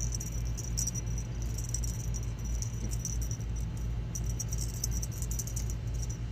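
Light metallic jingling in short, irregular clusters, heaviest in the second half, over a steady low hum.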